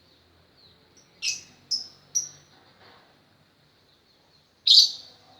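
Lovebird giving three quick, shrill chirps about a second in, each dropping in pitch, then a single louder chirp near the end. A faint steady high whine runs underneath.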